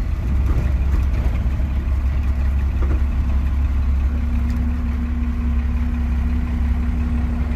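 Diesel engine of a square-body pickup with a swapped-in 3/4-ton Dodge diesel, idling along at crawling speed over a rough trail: a deep, steady low rumble. A steady hum joins it about three seconds in.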